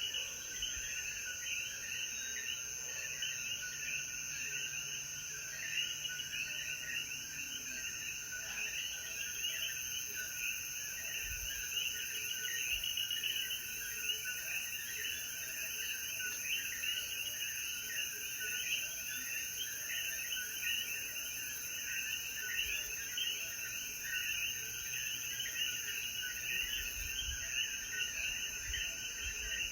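Chorus of many coquí frogs calling, their short rising chirps overlapping densely, over a steady high insect drone.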